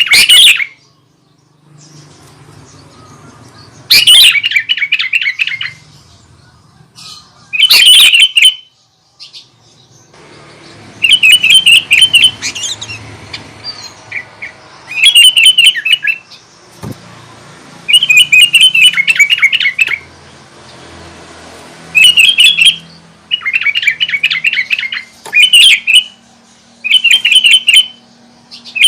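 Sooty-headed bulbul singing in full voice: about ten loud bursts of rapid, bubbly chattering notes, each a second or two long, with short pauses between.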